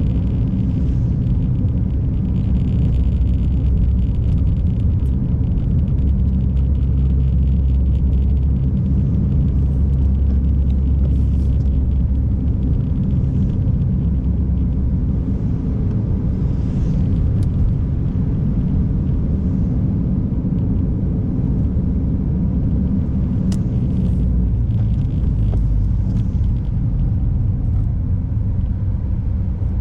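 Car driving on a snowy road: a steady low rumble of engine and tyre noise that runs evenly throughout.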